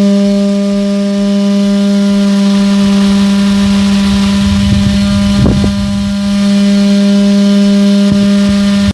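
Small electric motor running at a steady speed, giving a constant, unchanging hum, with some low rumbling about halfway through.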